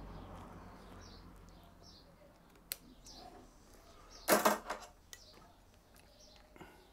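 A small bird chirps repeatedly in the background, short high chirps about once or twice a second. About four seconds in there is a short, loud clatter of a hand tool being handled on the workbench, with a single sharp click a little before it.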